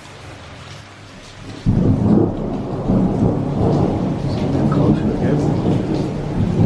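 Rain falling steadily, then about a second and a half in a loud thunderclap breaks in and rolls on as a low rumble through the rest.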